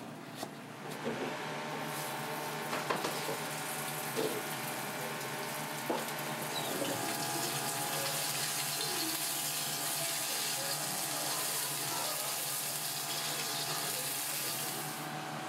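Oil sizzling in a wok as food fries, a steady hiss over a low hum, with a few sharp knocks in the first few seconds. The high hiss drops away near the end.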